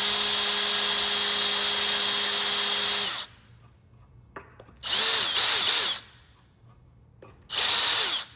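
Dremel rotary tool with a cone bit cutting a hole through a carbon fiber rigger. It runs at a steady whine for about three seconds and stops, then cuts in two more short bursts of about a second each.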